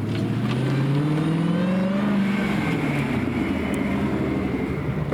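Car engine revving: its pitch climbs steadily for about two seconds, then holds and eases back down.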